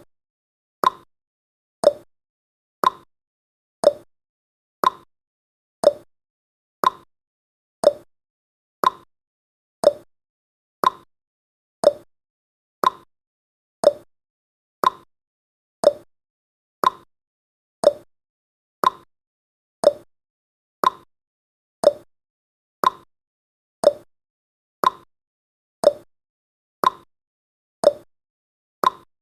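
Countdown timer's tick sound effect: a short, sharp click once every second, evenly spaced, marking off each second.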